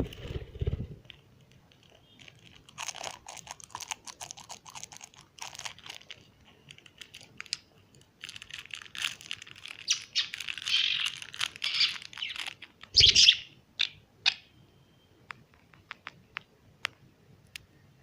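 A small bird chirping in soft twitters amid clusters of fine, rapid crunching clicks, with a few isolated clicks near the end.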